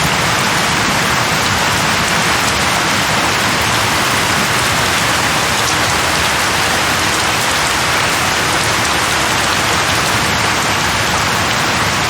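Steady heavy rain falling on a surface, a dense even hiss without a break.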